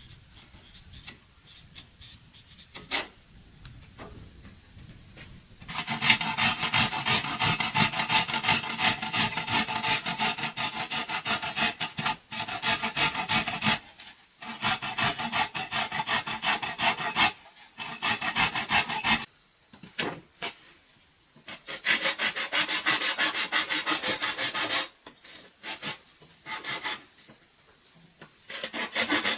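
Wood being scraped with an abrasive tool in bouts of rapid strokes. After a couple of light knocks, the scraping starts about six seconds in, then stops and restarts several times.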